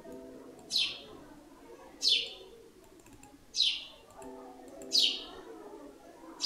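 A bird calling: five short chirps, each falling steeply in pitch, repeated evenly about every second and a half, with fainter low notes underneath in places.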